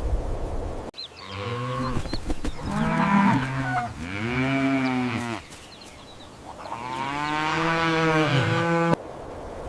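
Cow mooing: several long, drawn-out moos that rise and fall in pitch, the last one the longest. A hissing noise cuts off about a second in, before the first moo.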